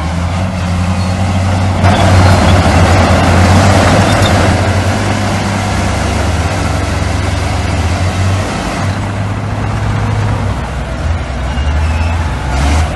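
Heavy diesel construction machinery running with a steady low engine drone. About two seconds in, a louder rushing noise lasts a couple of seconds before settling back.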